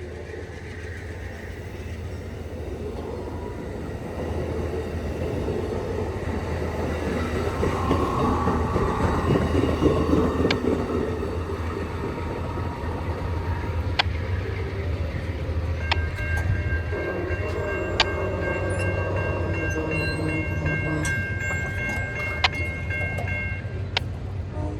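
Amtrak passenger train's diesel locomotive running as it pulls away, with a steady low rumble that grows louder towards the middle and a few sharp clicks from the wheels. In the second half a steady high-pitched chord of several tones is held for about seven seconds.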